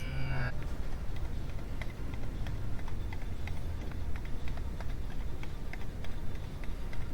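Click-type torque wrench clicking lightly and irregularly, several small clicks a second, over a low steady background rumble.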